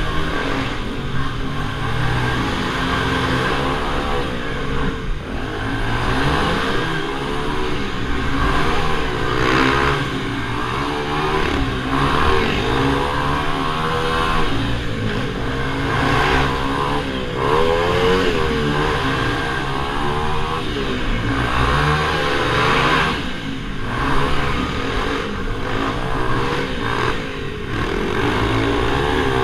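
Several minibike engines racing together, their pitches rising and falling over one another as they rev up and ease off.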